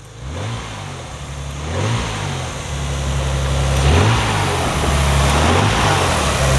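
1991 Nissan 300ZX Twin Turbo's 3.0-litre twin-turbo V6 revved through an upgraded exhaust. It starts with short blips that rise and fall in pitch, then moves to longer held revs, getting louder as it goes.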